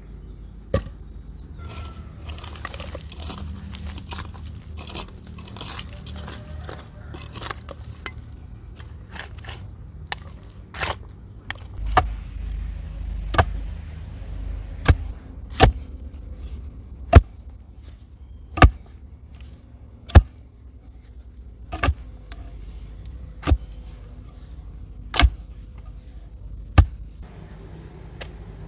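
Evenly paced sharp chopping blows on wood, about one every second and a half, after a stretch of rustling and scraping with scattered knocks. An insect keeps up a steady high-pitched buzz throughout.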